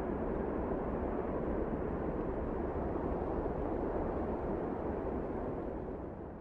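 Wind blowing in a steady low rush, easing slightly near the end.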